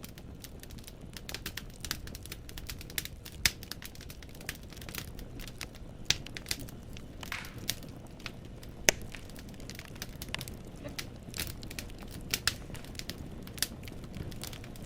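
Wood fire in a fireplace crackling, the logs popping and snapping irregularly over a low steady rumble of flame. The sharpest pops come about three and a half seconds and nine seconds in.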